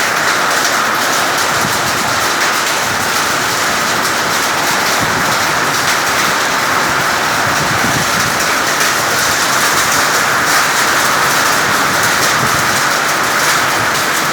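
Summer rain falling steadily and heavily: a dense, even hiss of drops.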